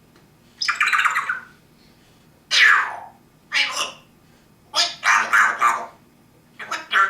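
African grey parrot giving a string of five loud calls with pauses between them; the second, about two and a half seconds in, falls in pitch.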